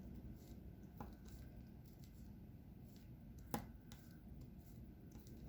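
Near silence with a few faint small clicks of diamond-painting work, drills being picked up and pressed onto the canvas with a wax pen; one sharper click about three and a half seconds in.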